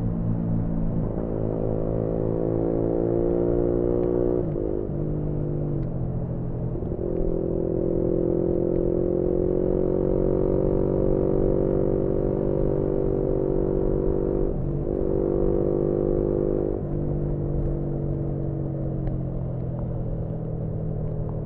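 A 2018 Yamaha MT-125's single-cylinder 125cc four-stroke engine running through a GPR aftermarket exhaust while the bike is being ridden. The engine note climbs gently in pitch under throttle, with short breaks and changes in pitch at gear changes, about a second in, near 5 and 7 seconds, and around 15 and 17 seconds.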